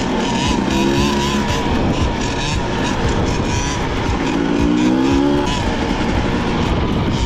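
Two-stroke dirt bike engine running and revving, its pitch rising about a second in and again around four to five seconds in.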